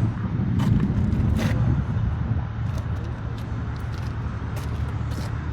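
Low, steady rumble of motor vehicles, heavier for the first two seconds and then even, with a few faint clicks.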